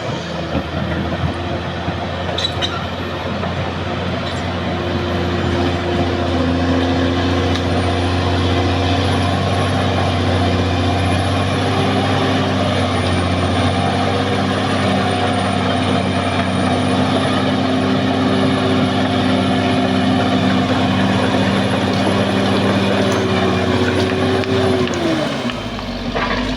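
Caterpillar D6R XL bulldozer's diesel engine running steadily while working, with a faint high whine above it; near the end the engine note dips and then picks up again.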